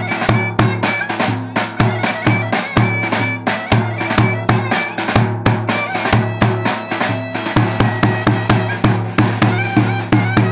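Turkish folk dance music played live: a loud, nasal reed melody over a sustained low drone, driven by a fast, steady drum beat.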